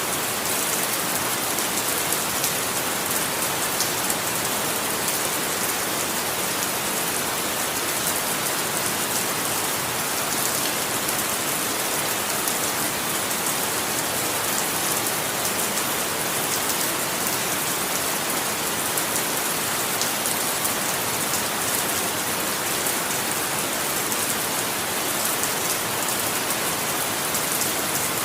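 Steady rain falling and pattering on a surface, an even hiss dense with fine drop ticks and no change in intensity.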